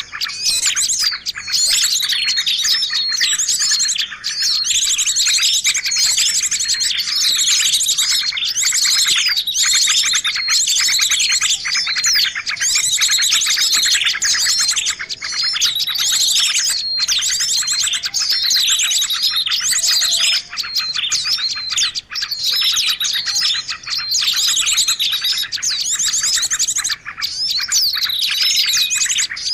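A dense, noisy chorus of many small birds chirping, whistling and trilling over one another without pause: a bird-lure (pikat) call recording meant to draw in wild birds.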